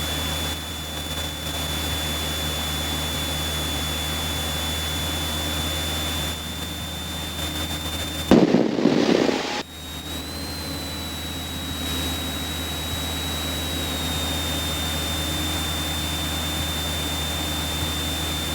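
Light aircraft's piston engine droning steadily in the cockpit, heard through the headset intercom with a thin steady high whine over it. About eight seconds in, a loud burst of sound lasting about a second.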